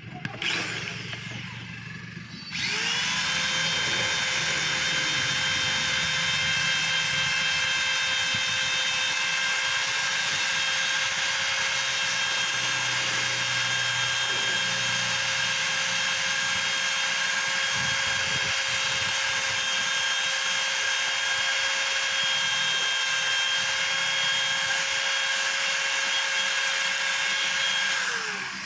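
A high-speed power tool spins up about two and a half seconds in, runs at a steady pitch for about 25 seconds, then winds down near the end.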